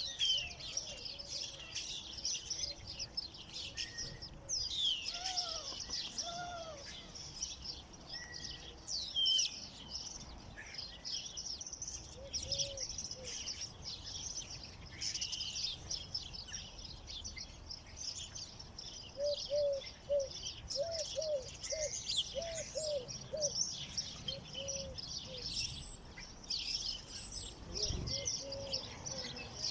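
Many small birds chirping and twittering together, a dense overlapping chorus of quick high notes, with a run of lower, repeated arched calls about two-thirds of the way in.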